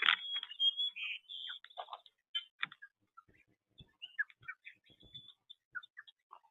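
Small birds calling in short, high chirps and whistles, busiest in the first couple of seconds and then more scattered, with a few faint taps in between.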